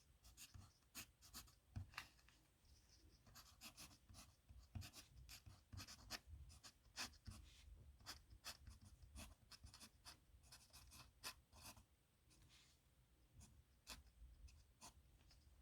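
Faint scratching of a dip pen's metal nib on paper during handwriting: quick irregular strokes and small ticks, with a brief lull late on.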